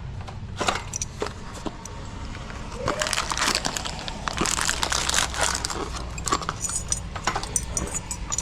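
Hands working with small hardware: scattered sharp clicks and knocks, with a busier rustling, crinkling stretch from about three to six seconds in.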